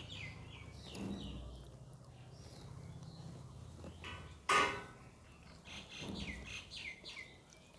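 Small birds chirping in clusters of short, falling calls, with one sharp click about halfway through.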